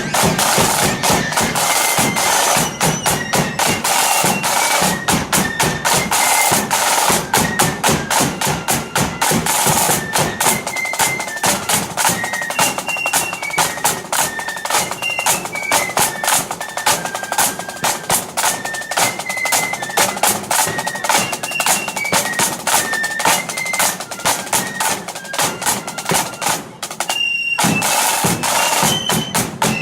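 Blood-and-thunder marching flute band playing: flutes carry a stepping melody over rapid snare drum rolls and bass drum beats. The playing breaks off for about a second near the end, then starts again.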